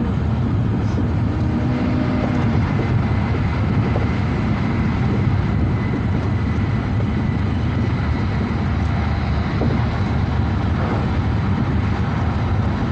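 Passenger train running, heard from inside the carriage: a steady low rumble with a hiss above it.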